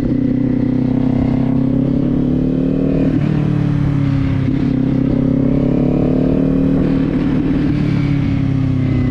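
Kawasaki Z400's 399 cc parallel-twin engine running under way, heard from the rider's position. Its pitch climbs, drops briefly about three seconds in, climbs again and eases off near the end.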